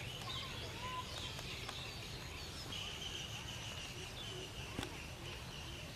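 Small birds chirping, with a thin high trill held through the second half, over a steady low rumble. One light knock near the end.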